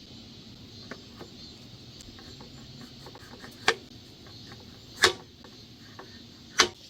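Three sharp knocks about a second and a half apart, the middle one loudest, with a few faint clicks in between over a low steady background.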